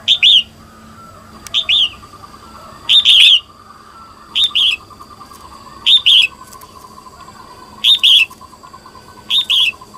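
Female red-whiskered bulbul calling: seven short, sharp two-note calls, each falling quickly in pitch, repeated about every one and a half seconds. This is the kind of call used to stir male bulbuls into singing. A faint, steady, lower trill runs underneath.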